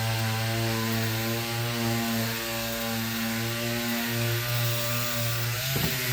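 Electric power sander running steadily, sanding down wood filler, with a brief dip in its motor pitch near the end.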